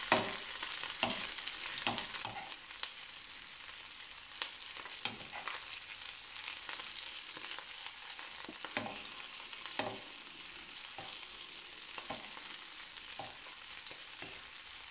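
Chicken roulades sizzling in melted butter in a frying pan, a steady frying hiss, while a metal spoon bastes them, clicking against the pan every second or so.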